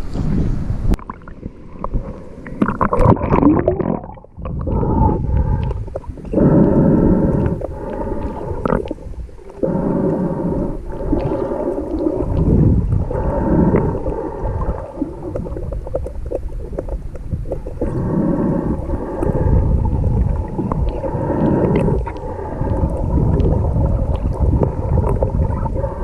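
Muffled underwater sound from a camera held under the sea while snorkelling: water rushing and rumbling in swells every two or three seconds, with a faint steady hum underneath.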